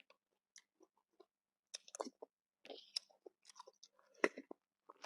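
Close-up chewing and wet mouth clicks of someone eating nam tok pork noodle soup, with louder bites about two, three and four seconds in.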